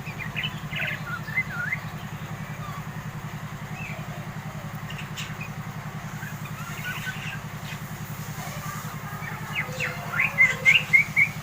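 A young yellow-vented bulbul (trucukan) chattering in short sliding chirps, a few in the first two seconds and a louder quick run near the end: the 'ngeriwi' calls of a bird coming into adult voice. A steady low hum runs underneath.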